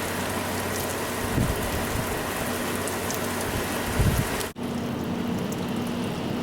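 Steady monsoon rain pouring down, an even hiss, with two low thumps about one and a half and four seconds in. The sound cuts out for an instant about four and a half seconds in, then the rain continues with a faint steady hum under it.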